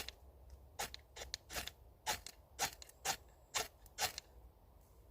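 Sharp scraping strikes of a fire starter, about eight at roughly two a second, throwing sparks onto birch bark tinder to light a campfire. The strikes stop about four seconds in.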